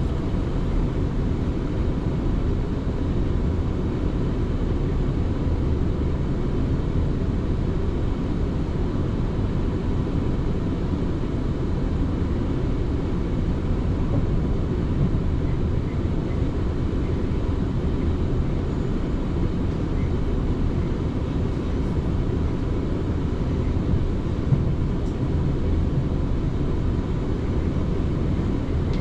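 Running noise of an electric passenger train heard from inside the carriage while moving between stations: a steady low rumble of wheels on rail, with one small knock about 24 seconds in.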